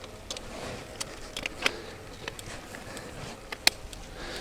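Vilano Shadow road bike rolling along: faint steady tyre and wind noise, with a few sharp clicks and ticks from the bike.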